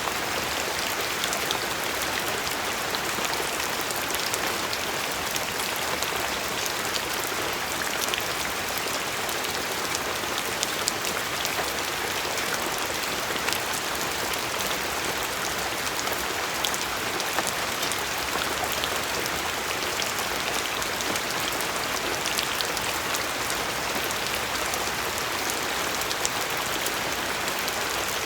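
Steady rainfall, a continuous hiss with many individual raindrops ticking sharply on a surface throughout.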